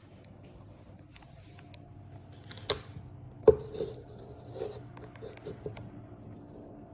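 A handful of knocks and clicks from hard objects being handled, the loudest knock about three and a half seconds in, over a steady low hum.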